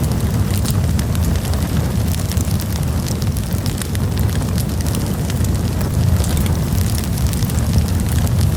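Campfire burning: a steady low rumble of the flames with frequent sharp crackles and pops from the burning wood.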